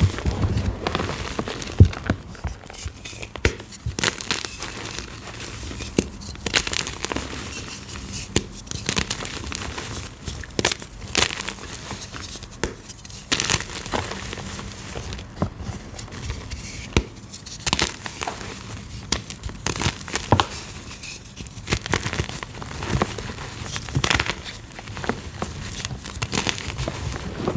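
Gym chalk blocks being crushed and crumbled: a dense, irregular run of crisp crunches and crackles, some louder snaps among them.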